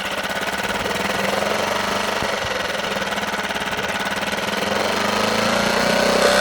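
Suzuki DF6 four-stroke outboard motor running, with a noise the owner finds strange.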